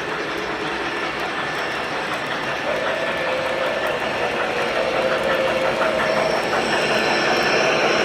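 Model trains running on a layout: wheels clicking over the rail joints with a steady running hum. A held tone joins about a third of the way in, and the sound grows a little louder toward the end.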